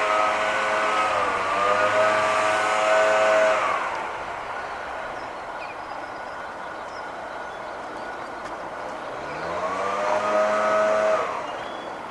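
Cars going by on a road: one passes and fades away about four seconds in, and another comes up and passes near the end, each with a steady engine and tyre hum.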